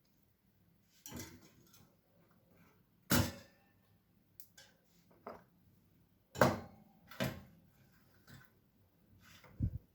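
Household handling sounds: a handful of separate knocks and clicks, the loudest about three and six and a half seconds in.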